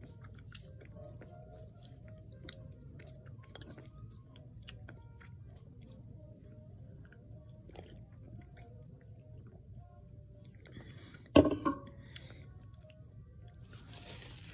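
Close-miked mouth sounds of a person chewing a burger while wearing dentures: small wet clicks and smacks. One short loud sound cuts in about 11 seconds in, and a brief breathy hiss follows near the end.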